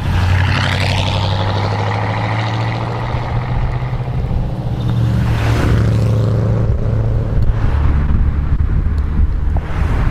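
V8 engines of several Corvettes rumbling as the cars drive past one after another: a steady low engine note, with swells of engine and tyre noise as each car goes by, about half a second in, around five and a half seconds in, and near the end.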